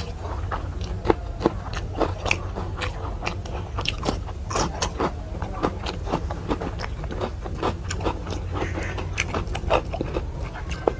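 Close-miked eating of rice with mashed bean bhorta: wet chewing and mouth smacks, with scrapes of food on the plate. The clicks and smacks come irregularly and keep going the whole time over a steady low hum.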